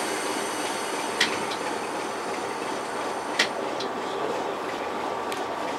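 Heritage train of Mk2 coaches heard from a coach window, with a steady rumble and hiss. Three sharp clicks from the wheels come about two seconds apart.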